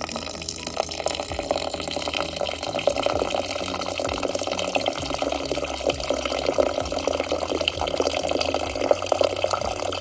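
Tap water running in a steady stream into a rice cooker's inner pot of raw rice, filling it to wash the rice.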